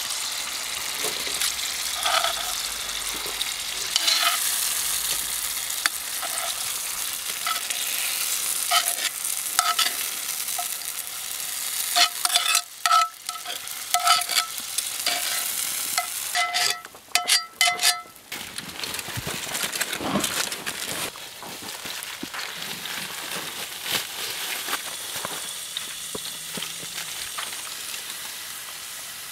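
Food sizzling in oil in a cast iron skillet while a metal utensil stirs and scrapes it, clinking against the pan; the clinks come thick and fast about halfway through.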